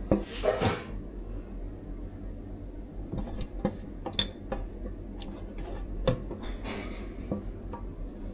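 Kitchen containers and utensils being handled and set down: scattered light clinks and knocks, with a brief rustle at the start and again about seven seconds in.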